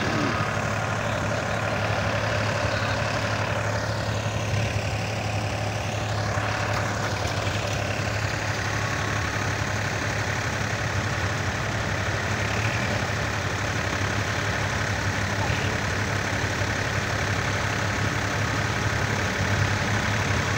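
Tractor engine idling steadily with an even, low hum.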